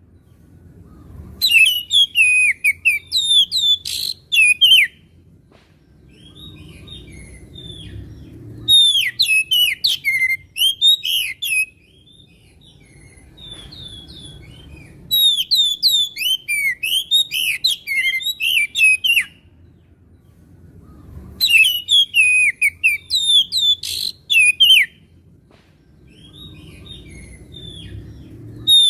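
Oriental magpie-robin (kacer) singing loud, rapid bursts of clear whistled and chattering notes, four song phrases of about three to four seconds each with short pauses between.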